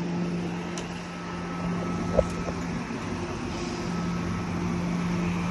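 Steady hum of a TER train standing at the platform, with a single click about two seconds in.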